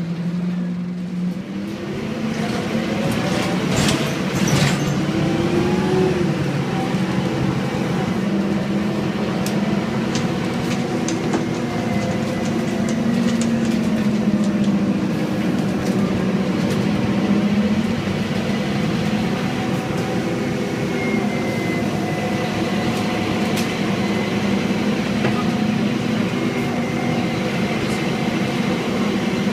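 Scania N230UD double-decker bus with a ZF six-speed automatic gearbox, under way: its diesel engine runs steadily, the note rising and falling as it pulls and changes gear. A few clicks and knocks come about four seconds in.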